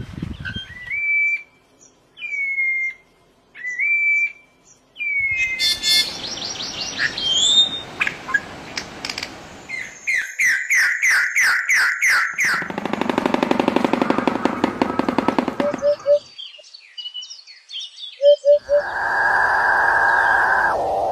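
Bird calls and whistles of several kinds in quick succession: short rising whistles, a fast run of repeated notes, trills and buzzy stretches, each pattern changing abruptly after a few seconds.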